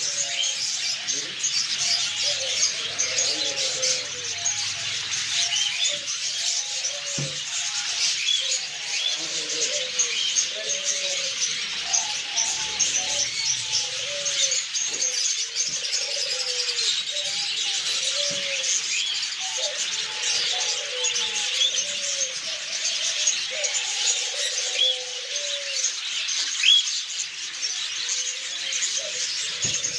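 Many caged small birds chirping and chattering at once in a steady, dense chorus, with pigeons or doves cooing low and repeatedly underneath.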